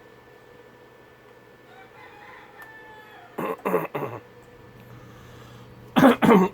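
A rooster crowing twice, a few seconds apart. Each crow comes in several loud bursts ending in a falling tone, over a faint steady hum.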